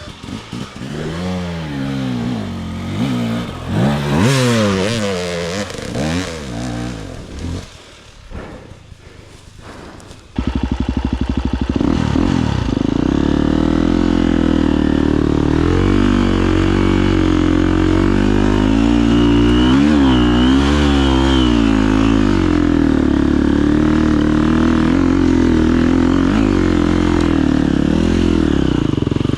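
Husqvarna FE250 four-stroke single-cylinder enduro engine revving up and down in short swings. About ten seconds in it suddenly gets much louder and is held at high, nearly steady revs for the rest.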